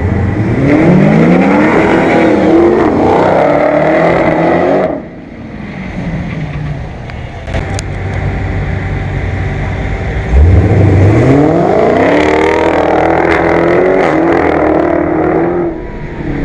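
Dodge Challenger Hellcat's supercharged 6.2-litre Hemi V8 launching hard from a standstill at full throttle, its pitch climbing with brief breaks at the upshifts. It drops to a quieter rumble for about five seconds, then a second launch climbs the same way.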